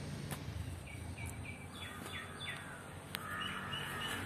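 Birds chirping: several runs of short, high calls, some falling in pitch, over a low steady hum. A single sharp click comes about three seconds in.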